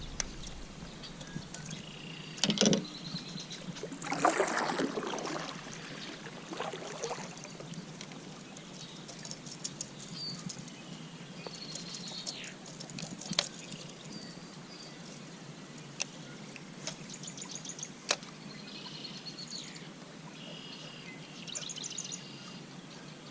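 Birds singing and chirping in repeated short trills over a quiet background, with two brief, noisier swells in the first five seconds and a few sharp ticks later on.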